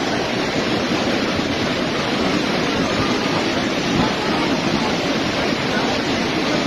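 Heavy rain falling, a steady dense rush of noise.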